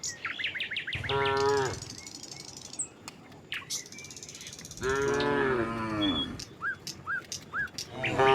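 Cattle mooing: a short moo about a second in, a longer moo around the middle that drops in pitch as it ends, and another beginning near the end.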